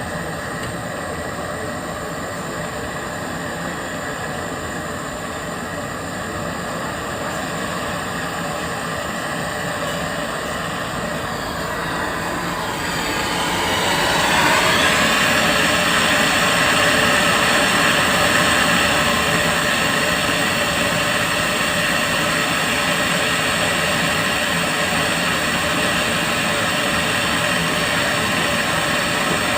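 Steady rushing machine noise, growing louder and brighter about thirteen seconds in and then holding steady.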